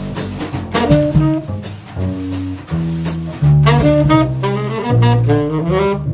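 Jazz trio of tenor saxophone, double bass and drums playing, the saxophone climbing in a rising run of notes in the second half over the bass line and cymbal strokes.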